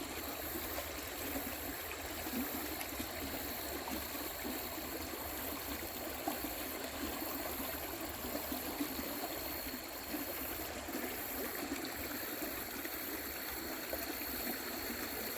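Creek water rushing steadily over rocks, foamy and turbulent, as an even hiss with no breaks.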